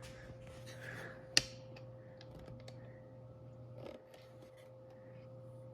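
Murray Feiss ceiling fan motor humming steadily on low speed, with scattered light clicks and one sharp click about a second and a half in from a phone mount being handled and tightened.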